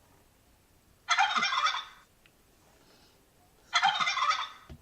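Turkey gobbling twice, each gobble a quick run of rapid notes lasting under a second, the two about two and a half seconds apart.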